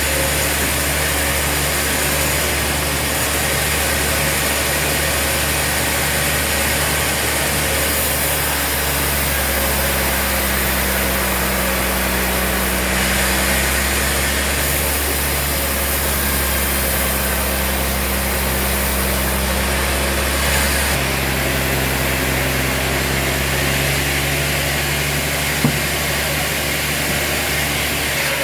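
Sawmill machinery running steadily with a continuous low hum. The hum's pitch shifts a couple of times, and there is one sharp click near the end.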